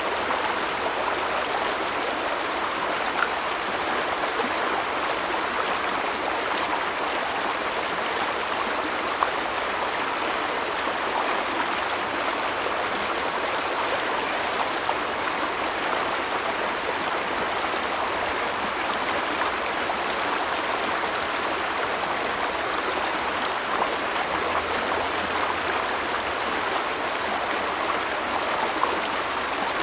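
Stream of water flowing steadily, an even rush of water with a few brief splashy ticks.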